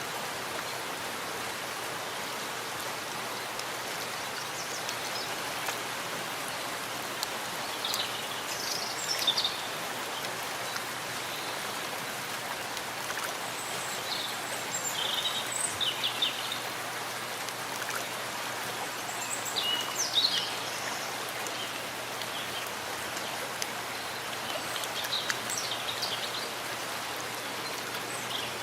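Steady rain falling in a forest, with short high bird chirps now and then.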